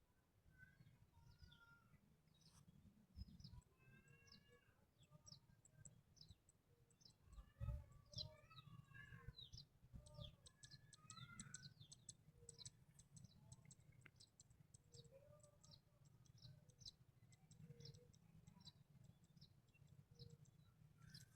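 Small birds chirping and twittering faintly, with many quick high chirps and some lower warbled phrases from more than one bird, over a low steady rumble.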